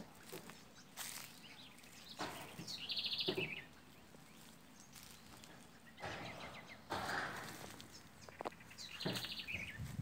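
A small bird calling twice, about six seconds apart: each call a rapid stuttering trill that drops in pitch at the end. Between the calls, rustling of leaves and twigs and footsteps in dry undergrowth.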